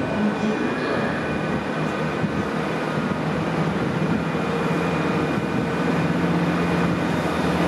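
A GWR Hitachi Intercity Express Train approaching. Its engines give a steady drone that grows slightly louder in the second half.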